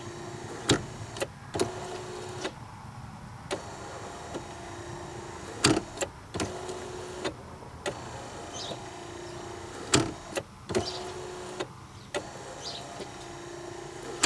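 Replacement wiper motor on a 1998 Corvette C5 running the wiper linkage back and forth. Its whirring tone swells with each sweep, about every two seconds, with sharp clicks and knocks from the mechanism. The linkage is moving freely now that it has been freshly lubricated with WD-40 and white lithium grease.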